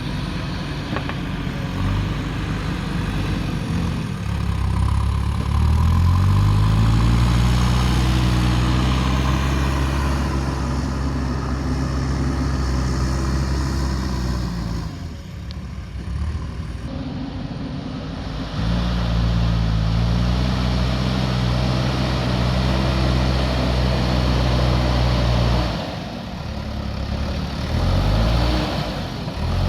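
JCB backhoe loader's diesel engine working, revving up about five seconds in and holding high revs, falling back to a low idle around the middle and again near the end, each time revving up once more.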